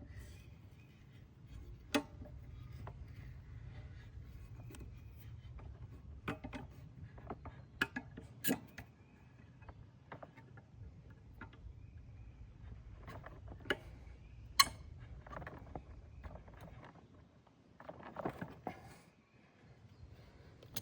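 Scattered, irregular metallic clicks and knocks from tools and the sharpened lawnmower blade being handled while it is refitted, over a faint low hum that dies away about three-quarters of the way through.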